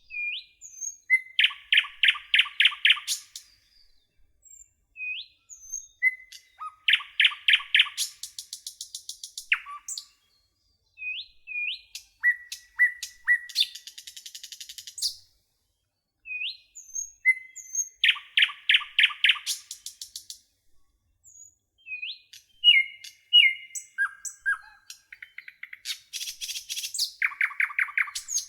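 A nightingale singing in separate varied phrases: short rising whistled notes, fast runs of rapidly repeated loud notes and high trills, with pauses of a second or two between phrases. The same rapid repeated-note phrase comes back several times.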